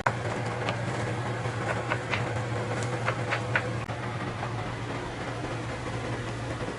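A steady low machine hum under a noisy hiss, with several light sharp clicks in the first half.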